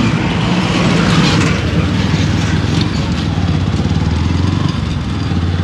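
Motorcycle engine running steadily while riding, heard from a camera mounted on the bike, mixed with a constant rush of wind and road noise.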